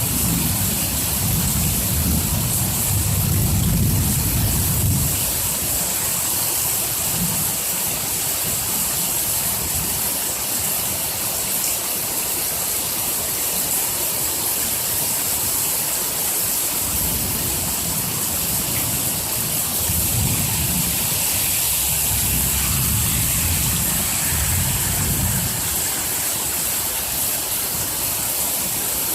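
Hard rain falling in a steady hiss, with low rolling rumbles of thunder swelling and fading in the first few seconds and again through much of the second half.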